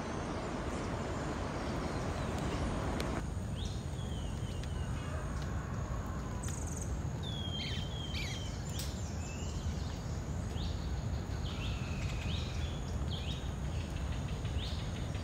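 Birds calling outdoors, many short falling whistles repeated from about four seconds in, over a steady low rumble. A hiss drops away suddenly about three seconds in.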